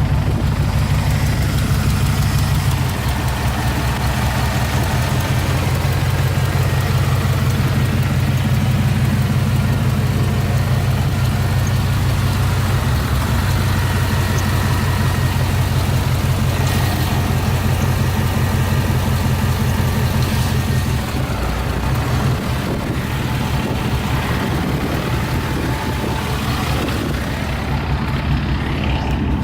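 The 6.0-litre LQ4 Vortec V8 of a 2003 Chevrolet Silverado 2500 idling steadily. The idle shifts slightly, dropping a little in level a few seconds in and again about two-thirds of the way through.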